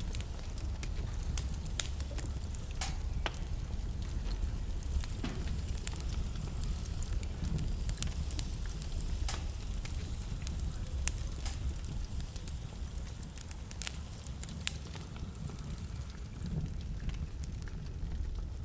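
Wood fire burning in a fireplace: a steady low rumble of the flames with irregular sharp crackles and occasional louder pops from the burning logs.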